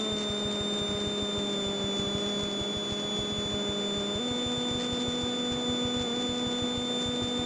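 Steady in-flight drone of a Beechcraft Debonair's piston engine and propeller, heard through the cockpit intercom as a hum with a thin high whine over it. The hum's pitch steps up slightly about four seconds in.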